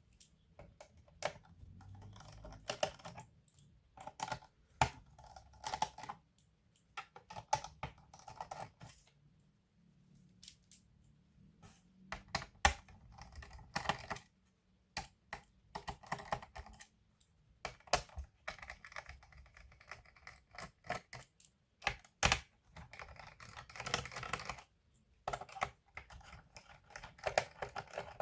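Irregular small clicks, taps and short scrapes of plastic and metal parts as an Asus A42F laptop is taken apart by hand.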